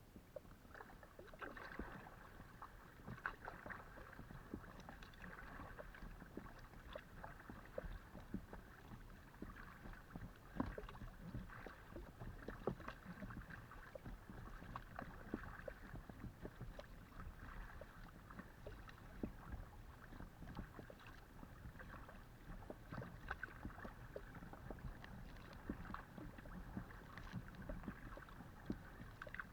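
Paddling a Decathlon Itiwit x500 kayak, heard from on board: water splashing and dripping off the paddle blades and lapping along the hull, with many small irregular splashes over a steady wash of water.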